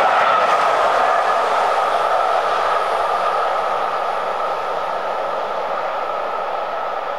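Passenger train coaches running past at speed on the rails, a steady rolling roar that slowly fades as the train draws away into the distance.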